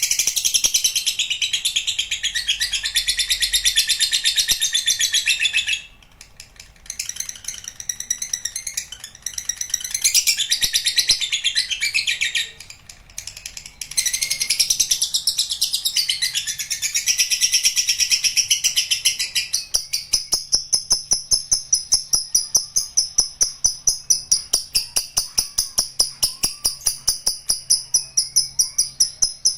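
Lovebird giving its long ngekek: a fast, high, chattering trill in long bouts, broken twice briefly. For the last third it turns into an even run of high pulses, about three a second.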